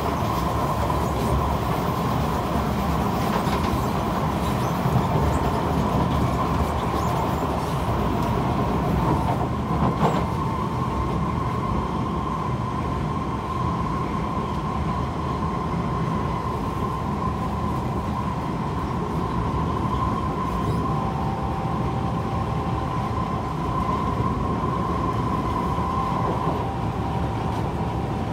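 Kawasaki C151 MRT train running along the track, heard from inside the car: a steady rumble of wheels on rail with a sustained high tone over it. A second, slightly lower tone joins about two-thirds of the way through, and there are a couple of brief knocks early on.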